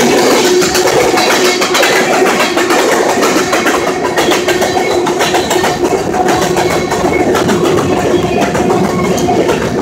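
Freight train rolling past close by: a loud, continuous rumble and rattle with rapid clicks and a steady ringing squeal held underneath.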